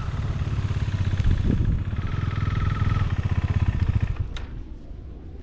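Motorcycle engine running with a fast, even pulsing beat, dropping away about four seconds in.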